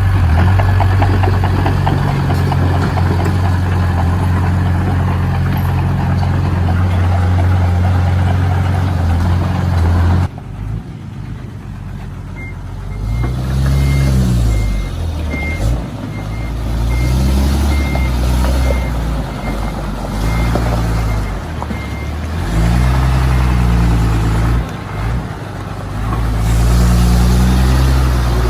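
Heavy diesel engine of road-building machinery running steadily at a constant speed. About ten seconds in the sound changes abruptly to a diesel engine revving up and down over and over, with a reversing beeper sounding for several seconds.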